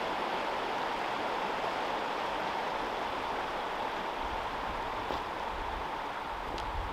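Steady rushing of a mountain creek's running water, with a few soft low bumps in the second half.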